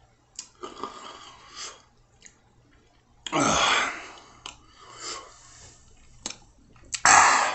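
A man breathing hard through the mouth, with two loud hissing breaths, one about three seconds in and one near the end, and some small mouth clicks between: his reaction to the burn of a superhot chili pepper he has just eaten.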